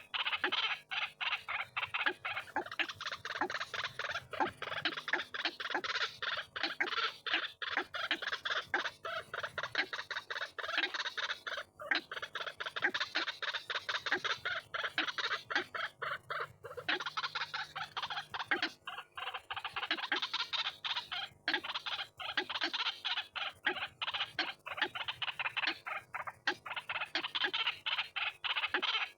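White-breasted waterhen (ruak-ruak) calling without a break: a rapid run of harsh, repeated notes.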